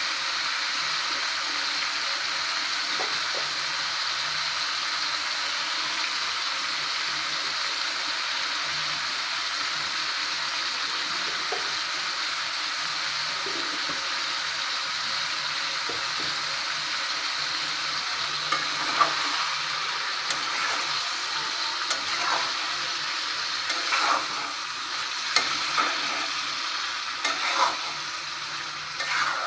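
Chicken curry frying with a steady sizzle in an aluminium pot. In the second half a spatula scrapes and knocks against the pot as it is stirred, in separate strokes that come closer together near the end.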